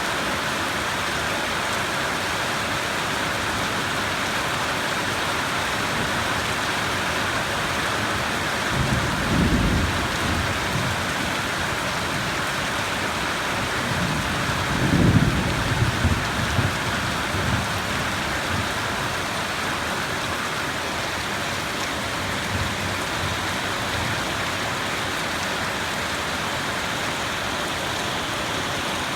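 Steady rain with two rolls of thunder: a low rumble about nine seconds in, then a louder one about fifteen seconds in that rolls on for a few seconds.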